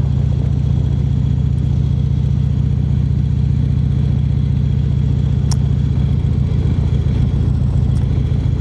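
Harley-Davidson V-twin motorcycle engine running steadily at a constant cruising speed, with its low, even pulsing rumble.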